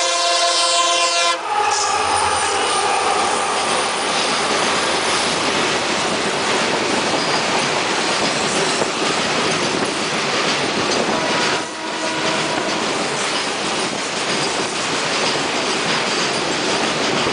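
WDG4 diesel locomotive's horn sounding, stopping about a second and a half in, then the steady rushing rattle and clatter of a long rake of covered freight wagons passing close alongside a moving passenger train.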